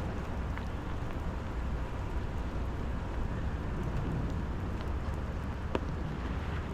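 Steady rain falling, with a few scattered sharp drips, over a constant low rumble.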